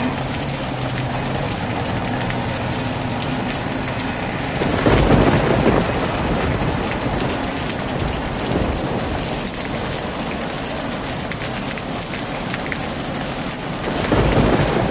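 Heavy rain falling steadily in a dense hiss, with thunder rumbling louder about five seconds in and again near the end.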